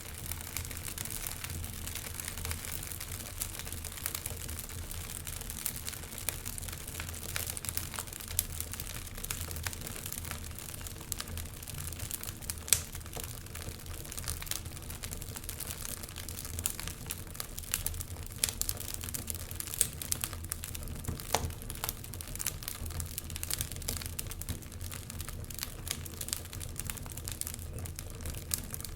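Wood logs burning in a fireplace, crackling with an irregular stream of sharp pops and snaps over a steady low rumble; one snap about thirteen seconds in stands out louder than the rest.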